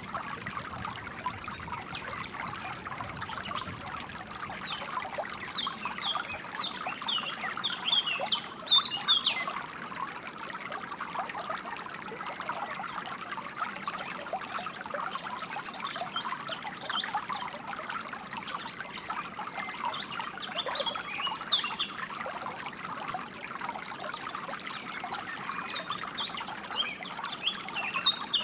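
Water trickling and babbling steadily, with songbirds chirping in clusters of quick high notes: about five to nine seconds in, again from about sixteen to twenty-two seconds, and near the end.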